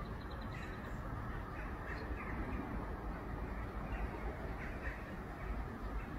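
A few faint, short bird calls scattered over a steady low rumble of outdoor background noise.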